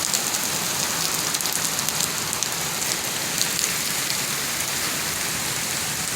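Steady rain falling and pattering on hard surfaces, with many separate drops ticking close by.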